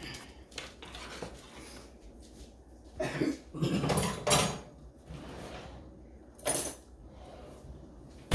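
Dishes and cutlery being handled on a kitchen counter: scattered clinks and knocks, with louder bumps or scrapes about three to four and a half seconds in and again around six and a half seconds.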